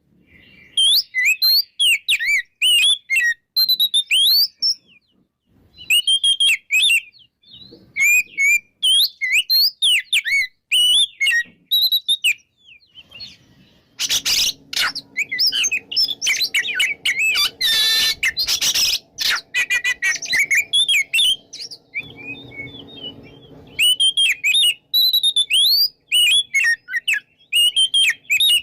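Oriental magpie-robin singing its full, open song: bursts of rapid, varied whistled phrases with short pauses between them. The song becomes denser and louder about halfway through.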